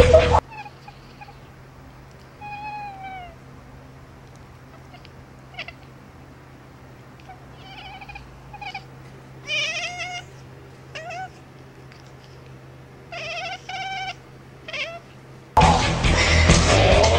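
A domestic cat meowing in a string of separate calls, some short and some drawn out and falling in pitch. Loud music plays briefly at the start and again near the end.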